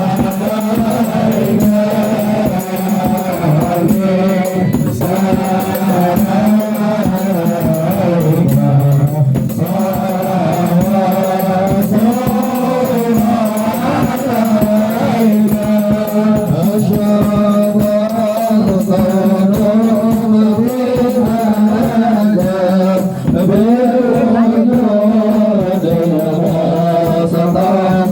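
Devotional sholawat singing with a wavering, melismatic sung melody over steady hand-drum beats, typical of hadrah music at a Maulid celebration.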